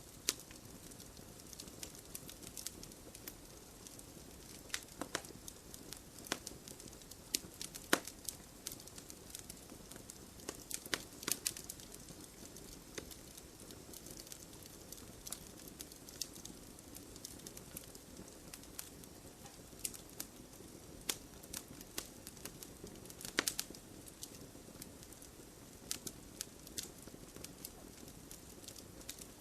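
Campfire burning with a low steady hiss and frequent irregular crackles and sharp pops, a few louder pops standing out.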